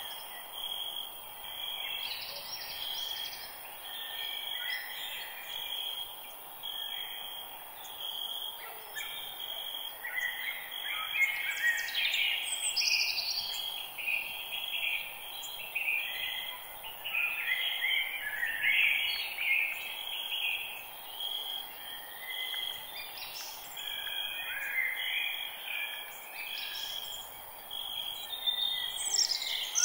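Forest birds singing and calling, several overlapping chirps and trills, over a steady high hiss. A short high note repeats about once a second throughout.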